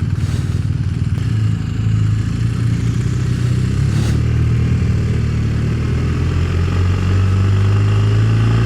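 Motorcycle engine running steadily at cruising speed, with rushing wind noise; the revs rise slightly about a second in, then hold.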